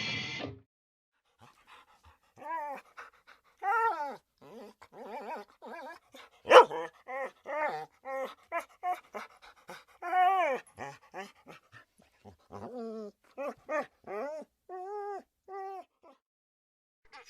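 A dog whimpering and yipping in a long run of short, high, bending cries, with one sharp click about six and a half seconds in.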